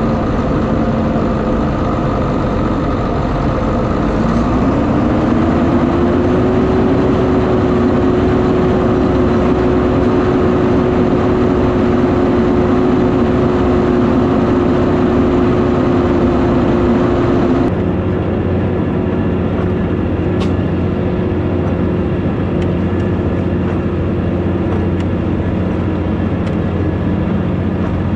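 Fendt 818 Turboshift tractor's diesel engine running hard under load, pulling a five-furrow plough through clay, with an open exhaust pipe. Its pitch rises about four seconds in and then holds steady. Past the middle the sound changes abruptly and turns duller.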